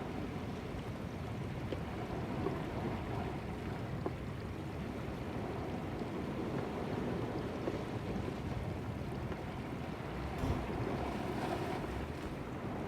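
Sea surf washing steadily against shore rocks, with wind buffeting the microphone.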